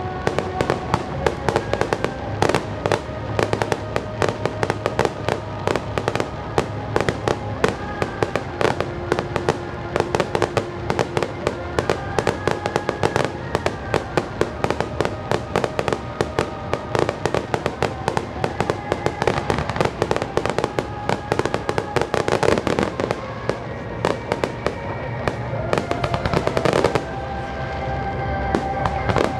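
Fireworks finale: a dense, rapid barrage of bangs and crackles, many each second, with music playing. The barrage grows louder in the last couple of seconds.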